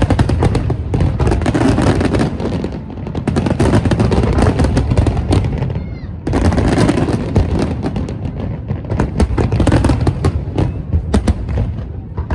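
Fireworks going off in rapid succession: a dense run of bangs and crackles over deep booms, easing briefly about six seconds in before building again.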